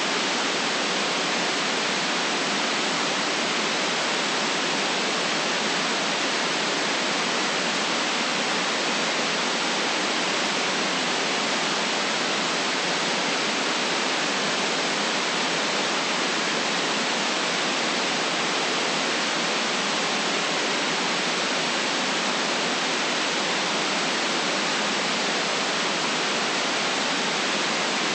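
Steady, unchanging white noise: an even hiss with nothing low in it, and no rise, fall or break.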